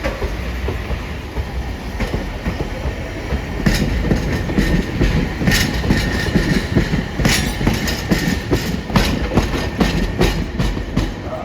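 Hiroshima Electric Railway streetcar running on its rails, its wheels clacking repeatedly over rail joints and points from a few seconds in, over a steady low rumble.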